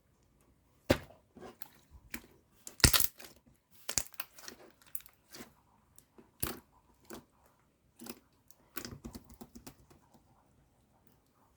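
Slime being handled by hand, with irregular crackling pops and crunches. The loudest pop comes about three seconds in.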